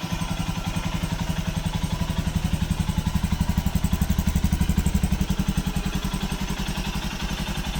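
Royal Enfield Himalayan 411's single-cylinder engine running at idle with an even, rapid beat of about a dozen pulses a second, a little louder in the middle, just started on a recharged battery.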